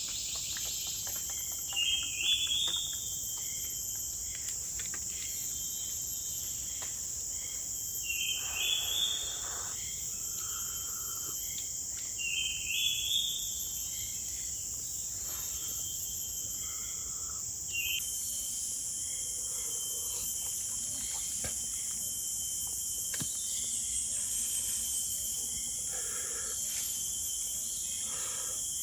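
Steady high-pitched chorus of forest insects, with a bird giving a short stepped, rising call three times, about five seconds apart, in the first half. Fainter scattered calls follow.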